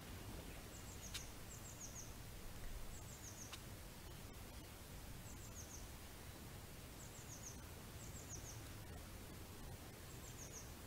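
A small bird chirping in a garden: short, high chirps in quick groups of two or three, repeated every second or two over a faint low background rumble.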